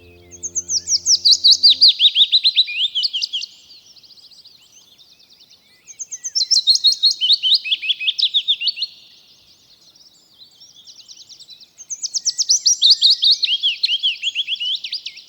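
Willow warbler singing: three phrases of soft, quick notes, each phrase tumbling down the scale from high to lower.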